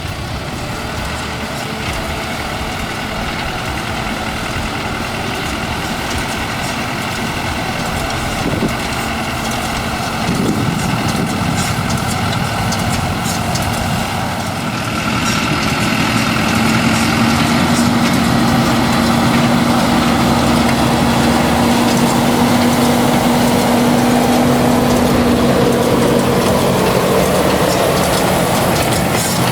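Fendt Farmer 309 C tractor's diesel engine running steadily under work, with a steady whine over it. It grows louder about halfway through.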